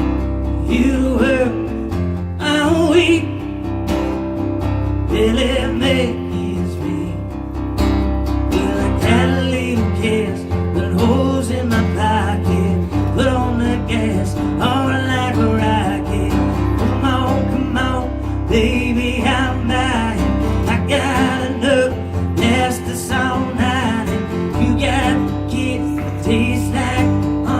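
Live acoustic music: a strummed acoustic guitar with a wavering melodic line running over it.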